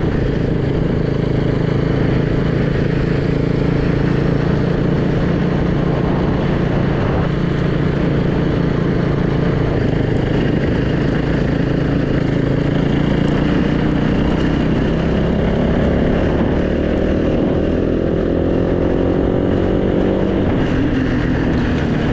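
Freshly rebuilt Yamaha YZ450 single-cylinder four-stroke dirt bike engine running under way, heard from the rider's helmet camera. It runs steadily, then rises in pitch as the bike accelerates in the latter part.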